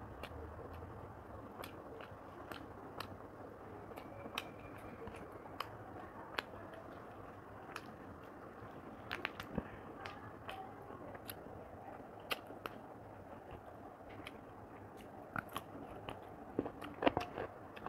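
Close-miked chewing and mouth sounds of a person eating rice and chicken curry by hand: soft wet smacks and clicks scattered throughout, with a denser, louder run of them near the end.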